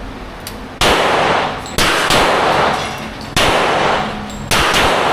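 Four gunshots on a shooting range, a little over a second apart at an uneven pace. Each is a sharp crack that rings on and fades before the next.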